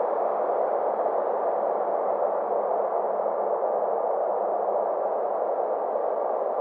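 Steady synthetic space ambience: an even, muffled rushing noise with a faint low hum beneath it, unchanging throughout.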